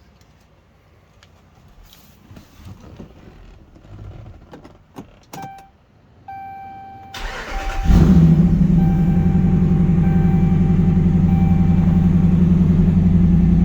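Clicks and a dashboard warning chime, then the Dodge Ram's 5.7-litre Hemi V8 cranks briefly, catches with a rev flare about eight seconds in and settles into a steady idle. The exhaust is believed to run glass-pack mufflers.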